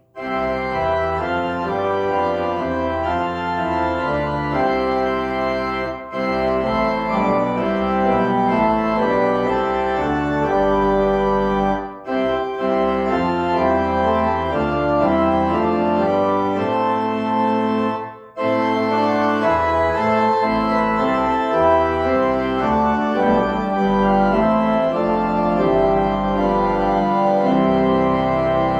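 Church organ playing held chords in steady phrases, with short breaks between phrases about every six seconds, as in a hymn tune.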